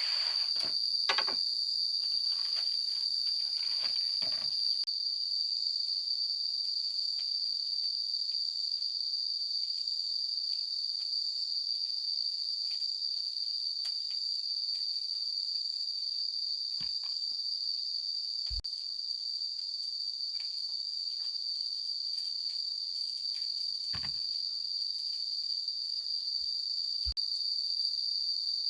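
A steady, high-pitched chorus of insects shrilling without pause. Over it come scattered clicks and light knocks, busiest in the first few seconds, with a few single low knocks later on.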